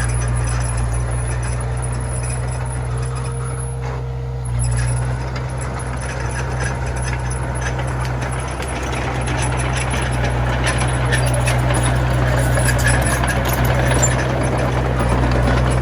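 Komatsu mini bulldozer's diesel engine running steadily under a low hum, with a clattering, rattling noise that grows louder in the second half.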